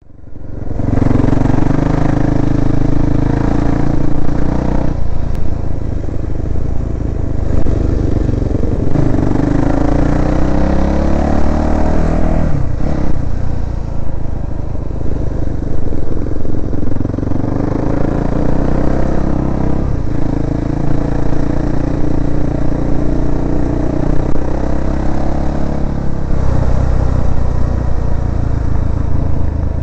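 Yamaha YZ400F four-stroke single-cylinder motocross bike being ridden, its engine revs rising and falling through several gear changes.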